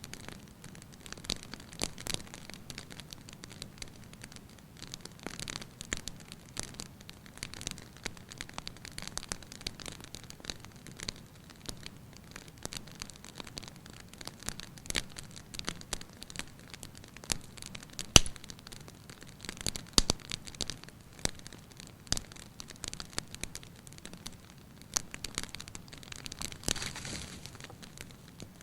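Wood fire crackling in a fireplace: irregular small snaps and pops over a soft steady hiss, with one sharp louder pop about 18 seconds in and a brief hiss near the end.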